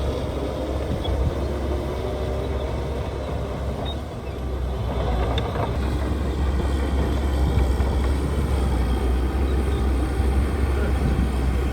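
Heavy earthmoving machinery's diesel engine running with a steady low rumble, easing off about four seconds in and then coming back louder.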